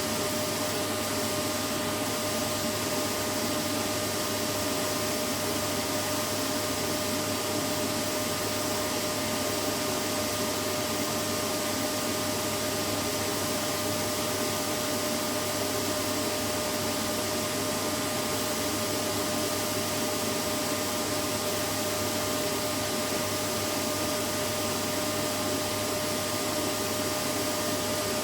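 Vacuum cleaner running steadily: an even rush of air with a constant whine, unchanging throughout.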